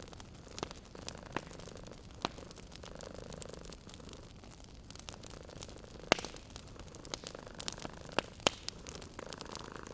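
Wood fire crackling in a fireplace, with scattered sharp pops over a steady low hiss; the loudest pops come about six seconds in and twice more near the end. A cat's purring runs faintly beneath.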